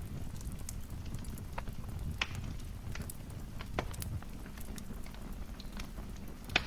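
Wood fire crackling in a fireplace: scattered sharp pops and snaps over a low, steady rumble of flames, with the loudest pop near the end.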